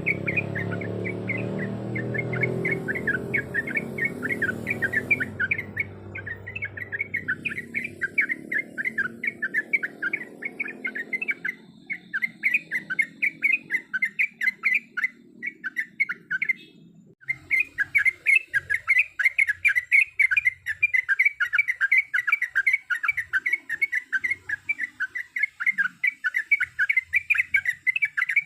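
Yellow-vented bulbul (trucukan) calling in a fast, continuous run of short repeated chattering notes, briefly pausing twice, with a low rumble underneath that fades out in the first several seconds.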